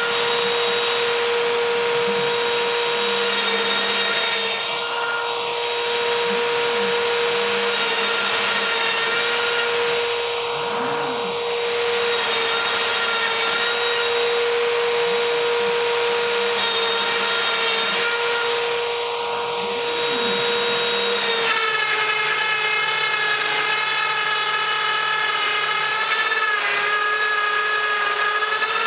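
Router spindle of a home-built CNC router running steadily with a high whine as it cuts test parts. The sound dips briefly three times, and about twenty-one seconds in its tone changes.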